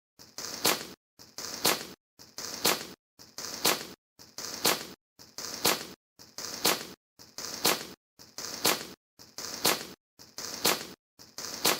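Small children's firework going off in short hissing crackles, about one a second, each ending in a sharp crack, with silence between them.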